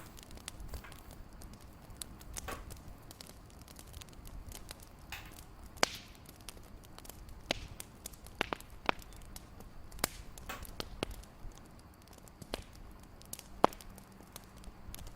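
Fireplace crackling: irregular sharp pops and snaps over a low steady rumble, with the strongest pops about six seconds in and near the end.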